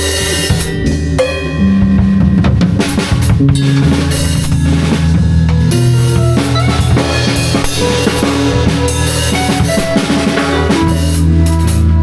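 Live band improvising, with a drum kit playing a busy groove of bass drum, snare and rimshot hits over held low bass notes that change pitch.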